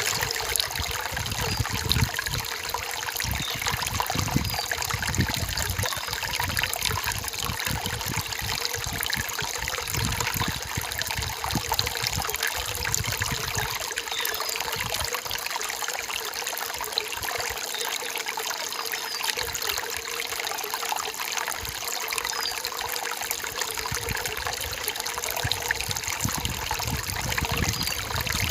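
A stream of water trickling and splashing steadily, with a few faint, short, high chirps scattered through it.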